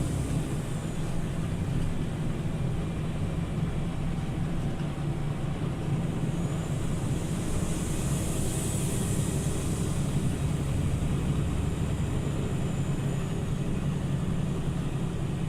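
Scania OmniLink CL94UB city bus under way, heard from inside the passenger cabin: a steady low engine and drivetrain drone with road noise. A high hiss swells and fades about halfway through.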